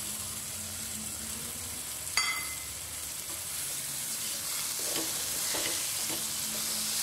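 Boiled kidney beans sizzling in hot, oil-released spice masala in a non-stick kadai, a steady frying hiss. A sharp clink rings out about two seconds in, and near the end a spatula scrapes through the beans in a few strokes.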